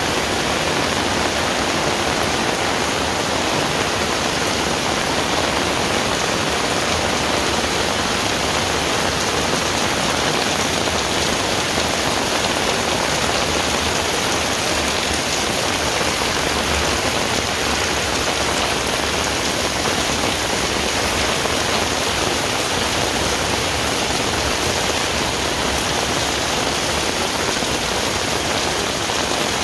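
Heavy rain falling steadily, a dense even hiss of rain pattering on surfaces.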